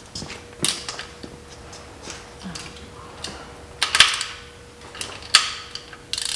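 Metal hand tools clicking and clinking as a socket wrench is worked on bolts, in irregular sharp clicks, loudest about four seconds in. A faint steady hum runs beneath.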